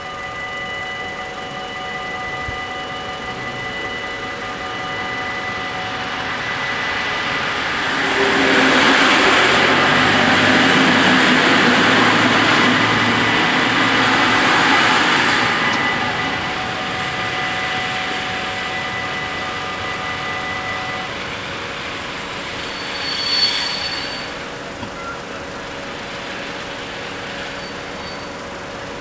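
Level-crossing warning bells ringing steadily while an NS Mat '64 (Plan V) electric train passes. The train's rumble and rail noise are loudest for about eight seconds in the middle. The bells stop about two-thirds of the way through, and a brief sharp sound follows.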